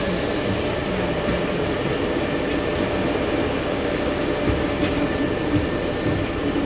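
Cabin of a LiAZ-6213 articulated city bus standing at a stop: its diesel engine idles under a steady interior hum. A high hiss of air fades out in the first second.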